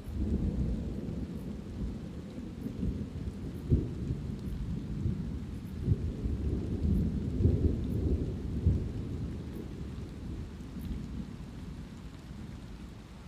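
Thunder rumbling low and continuously over light rain, swelling louder several times through the middle and easing off near the end.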